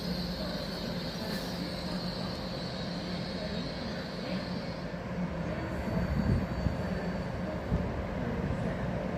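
Train engine running at a station platform: a steady drone with a high whine that fades out about five seconds in, and a few louder knocks after.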